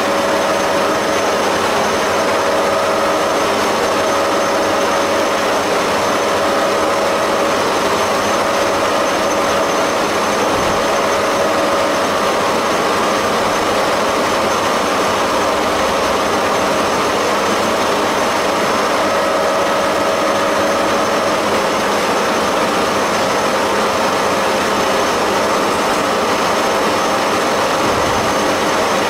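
Haas CNC milling machine running a cut on a fourth-axis dividing head while machining a cam: a steady machining noise with a constant whine held throughout.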